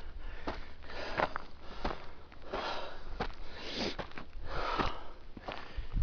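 Heavy, hard breathing of a hiker labouring up a steep slope, a loud breath roughly every second.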